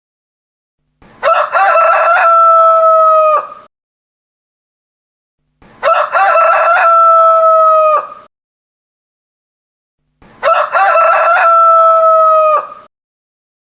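Rooster crowing three times at even intervals, each crow about two and a half seconds long: a broken opening followed by a long held note that drops off at the end, with silence between crows.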